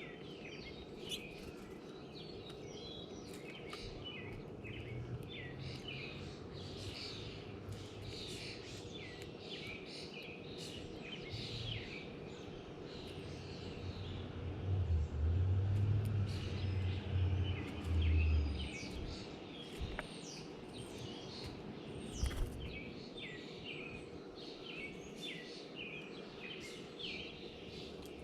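Many small birds chirping and calling at a feeder, with short quick chirps throughout. A low rumble rises over them from about halfway through for several seconds.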